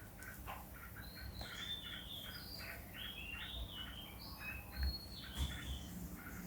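Birds chirping: many short, quick chirps overlapping with higher whistled notes. Two brief low thumps come just past the middle.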